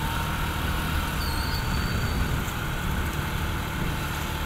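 Riding on a motorbike: the engine running steadily under a constant rush of wind and road noise, with street traffic around.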